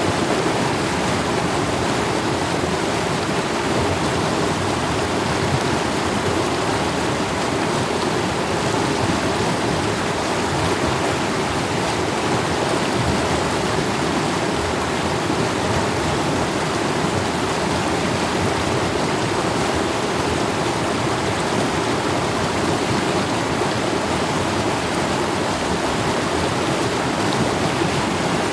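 Mountain stream water flowing steadily in a continuous rushing wash.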